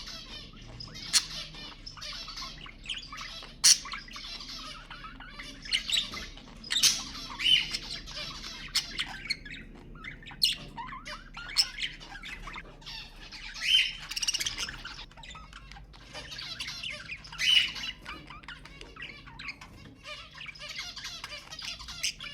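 Budgerigar chatter: continuous warbling and chirping, broken several times by sharp, loud squawks.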